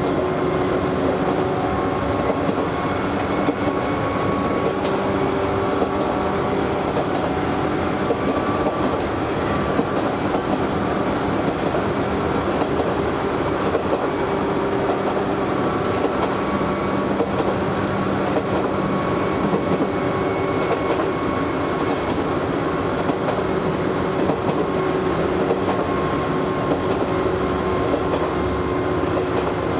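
Inside a resistance-controlled Izu Hakone Railway Series 3000 electric train car running at steady speed. Steady wheel-on-rail rumble with clickety-clack over rail joints, and faint steady motor and gear hum.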